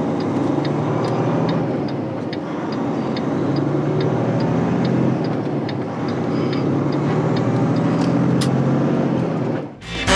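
Semi-truck's diesel engine and road noise heard inside the cab while cruising, a steady hum with a faint regular tick about three times a second. It cuts off abruptly near the end.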